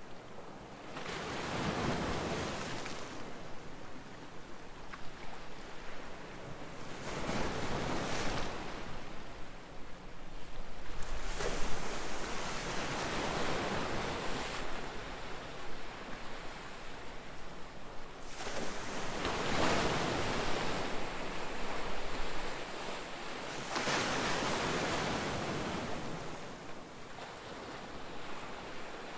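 Ocean waves breaking, the surf swelling and falling away about every five seconds. The loudest crash comes a little past the middle.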